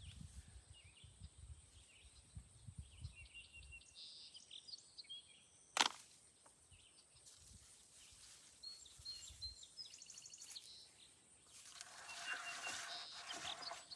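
Faint outdoor ambience with birds chirping at intervals, a single sharp click about six seconds in, and a short stretch of hiss near the end.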